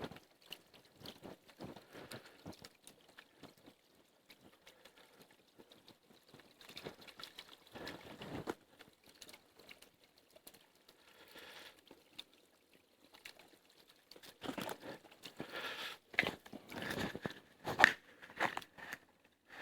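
Irregular close-up crunching and crinkling, with scattered small snaps and rustles that come louder in stretches partway through and near the end.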